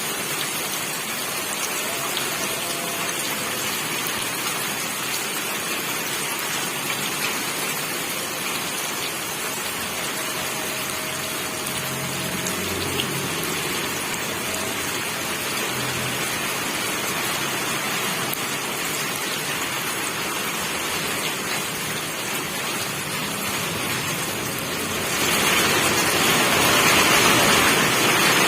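Steady rain falling. About three-quarters of the way through it suddenly becomes louder and heavier.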